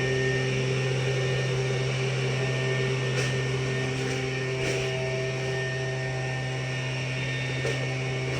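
Tractor engine running steadily, a constant hum with unchanging pitch and a few faint ticks.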